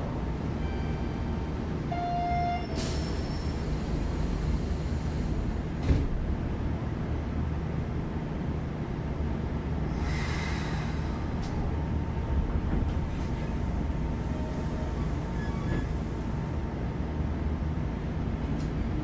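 Hanshin 8000 series electric train running along the line: a steady low rumble of wheels and running gear on the rails. Two rushing surges of noise rise over it, one about three seconds in lasting a few seconds and a shorter one about ten seconds in.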